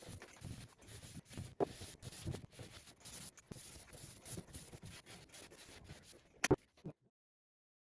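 Very fine 0000 steel wool rubbing wax into wood grain: a faint, scratchy back-and-forth rubbing in irregular strokes, ending with a sharp knock near the end.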